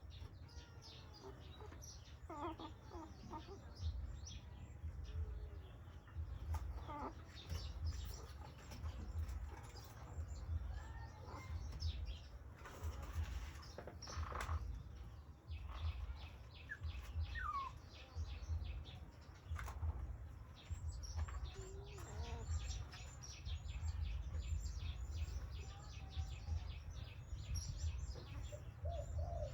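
Small birds chirping in quick repeated runs over a steady low rumble, with a few short sliding calls now and then.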